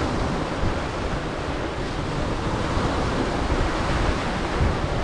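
Waves breaking and washing on the shore of an incoming tide, with strong wind buffeting the microphone.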